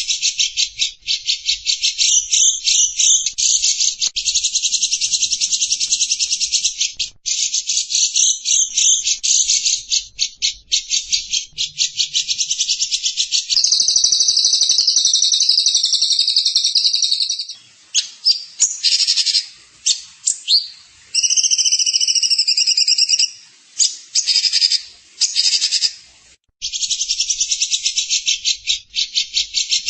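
Small songbird singing a long, very rapid buzzy trill of high-pitched chirps, nearly without pause, broken into shorter stop-start phrases about two-thirds of the way through.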